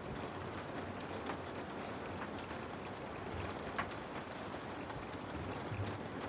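Steady rain ambience: a constant hiss of rainfall with scattered individual drips ticking on a surface, one more distinct about four seconds in, over a faint low rumble.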